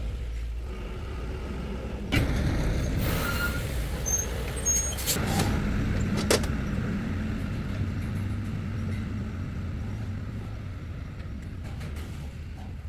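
A vehicle engine running steadily, with louder noise and a few sharp knocks between about two and six seconds in.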